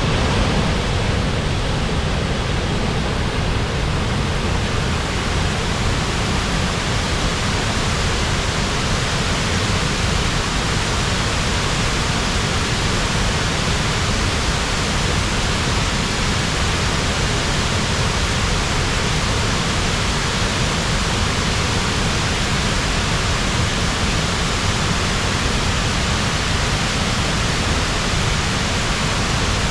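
The upper Tahquamenon Falls, a large waterfall, pouring in a loud, steady, unbroken rush of water.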